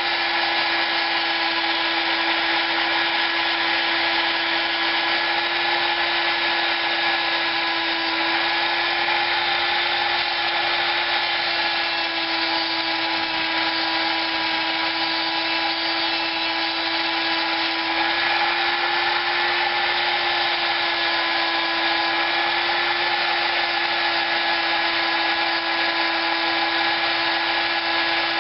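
High-speed rotary tool running continuously with a steady whine, its pitch wavering slightly now and then, as it sands and smooths the aluminium cylinder head of a Predator 212 engine with a 280-grit abrasive.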